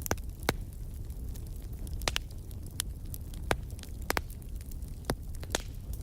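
Wood fire crackling in a fireplace: irregular sharp pops and snaps, about ten in a few seconds, over a low steady rumble.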